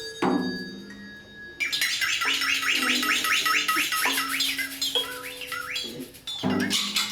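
Live group soundscape performance: a struck sound rings out at the start, then a dense stream of rapid, high bird-like chirps and squawks plays over a few held low tones, with another loud burst of sound near the end.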